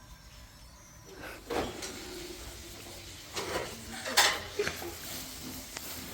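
Pots and dishes being handled during cooking, clinking and knocking against each other in several sharp clatters, the loudest a little past four seconds in.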